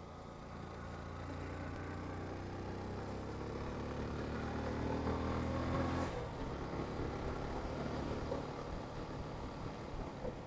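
Yamaha FZ motorcycle engine pulling under throttle, its pitch climbing steadily for about six seconds, then dropping off abruptly; after that the engine runs on at lower, uneven revs under wind and road noise.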